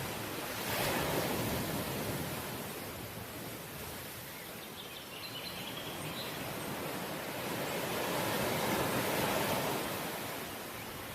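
Sea waves breaking and washing up the shore, swelling about a second in and again, longer, near the end.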